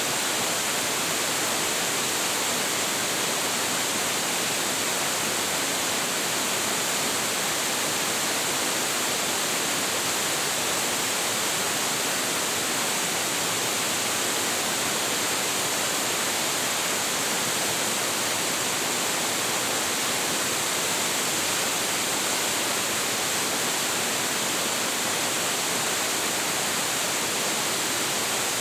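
A large waterfall pouring steadily: a continuous, even rush of falling water, brightest in the high range, with no distinct splashes or breaks.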